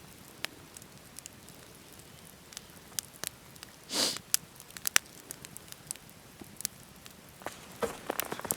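Wood campfire crackling, with scattered sharp pops at irregular intervals, a short rushing noise about four seconds in and a cluster of pops near the end.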